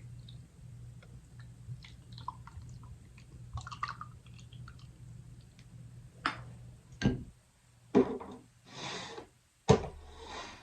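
Small tabletop handling noises: scattered faint clicks and taps, then several sharper knocks in the second half with a short hiss between them.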